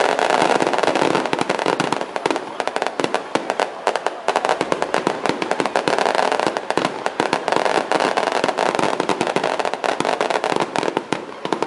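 Firecrackers going off in a rapid, continuous crackle of pops, dense and unbroken.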